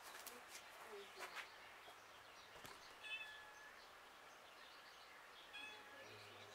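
Faint outdoor ambience in which a bird chirps briefly about three seconds in and again near the end, with a few soft knocks in the first second and a half.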